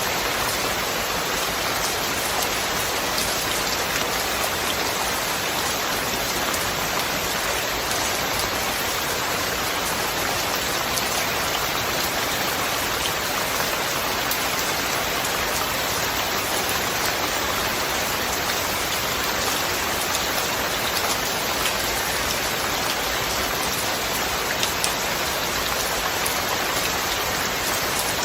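Steady rain falling, an even hiss of many drops with faint scattered pattering, no thunder.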